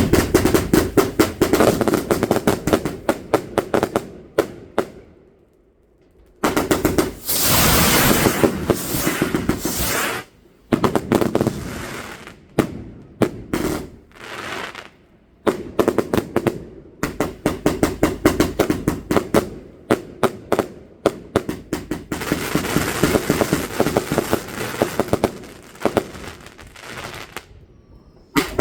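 Fireworks going off in rapid crackling volleys of many sharp bangs a second, in several bursts broken by short pauses.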